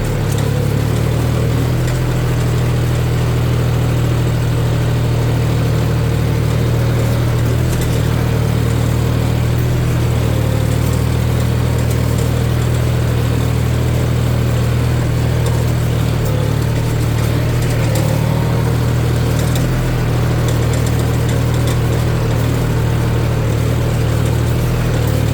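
A John Deere four-wheel-drive tractor's diesel engine running steadily while working through mud, a low, even drone that holds the same pitch throughout.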